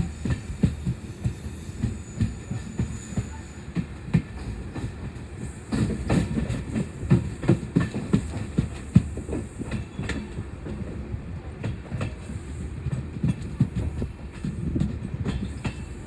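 Passenger train running along the track, its wheels clacking and knocking rapidly and irregularly over a steady low rumble, growing louder about six seconds in.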